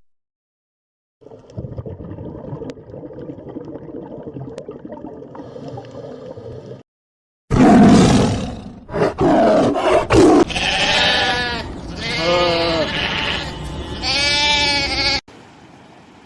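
A steady noise for a few seconds, then an animal bleating loudly, four or five calls with a wavering, quavering pitch.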